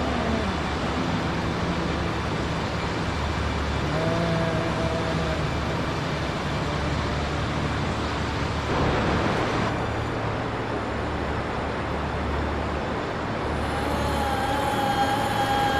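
Steady traffic-like rumble of vehicles, with a few held pitched tones: one at the start, one from about four seconds in, and one starting near the end.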